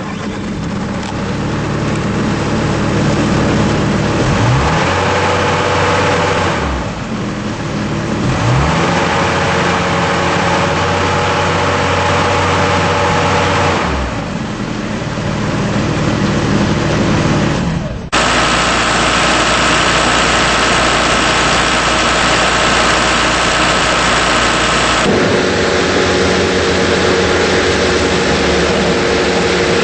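Bobcat T190 compact track loader's Kubota diesel engine running, its speed rising and falling several times. The tone changes abruptly about two-thirds of the way through, and again a few seconds later.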